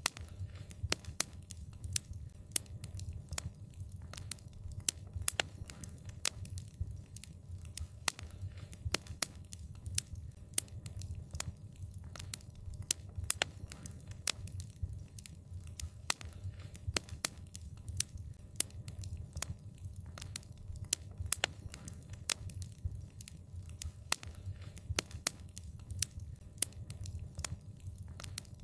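Wood fire burning, with many sharp, irregular crackles and pops over a steady low rumble.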